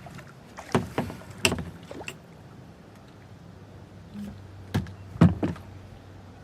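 Scattered knocks and taps on a kayak: about four in the first two seconds and three more near the end, over a faint steady background.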